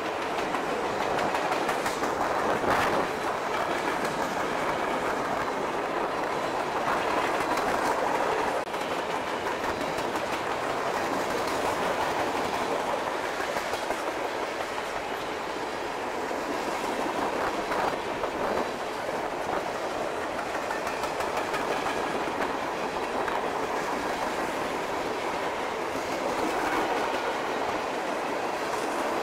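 Freight train cars rolling past close by: steel wheels on the rails, a steady run of noise with irregular clicks as the wheels pass over the track.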